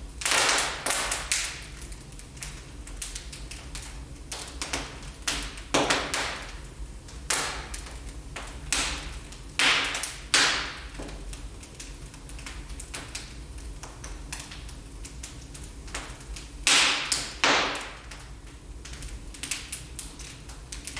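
Wood fire in a fireplace crackling, with irregular sharp pops and a handful of louder snaps scattered through, over a soft steady low rumble.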